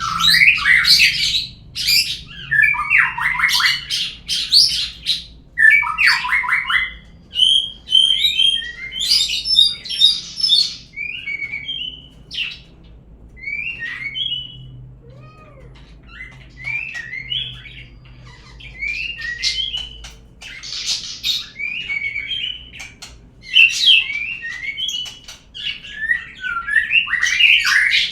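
Murai songbird (Copsychus) song, the lure call played to draw a caged murai into singing: varied whistled phrases and harsh chattering notes in quick succession. There is a quieter lull of several seconds in the middle.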